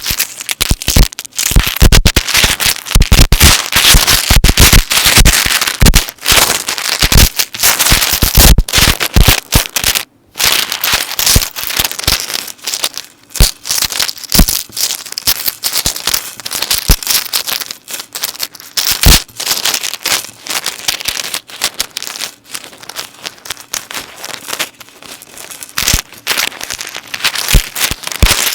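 Metal necklace chains being handled and moved, clinking and jingling in a dense run of small clicks, with a brief pause about ten seconds in.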